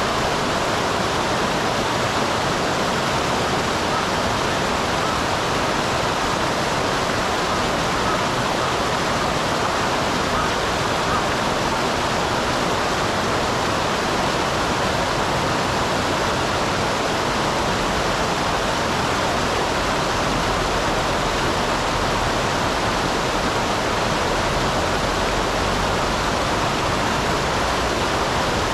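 Small waterfall on a mountain stream splashing steadily, a constant even rush of falling and running water.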